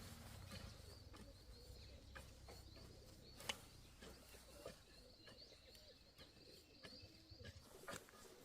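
Quiet outdoor ambience: faint small bird chirps with scattered light clicks, one sharper click about three and a half seconds in.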